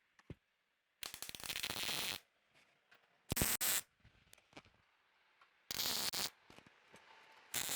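Welding arc crackling in four short bursts: tack welds joining the steel pieces of a bumper to its frame mount.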